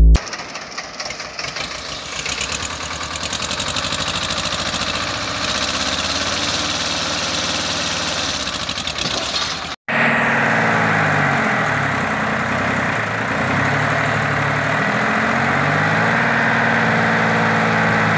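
Diesel tractor engine running, its revs swinging up and down as it is throttled. There is a sudden break about ten seconds in, then more engine running with the pitch rising and falling repeatedly.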